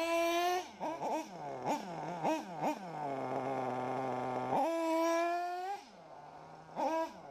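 Electric RC buggy motor whining, its pitch dropping and climbing again and again as the throttle is worked, with a longer low-pitched stretch in the middle before it jumps back up.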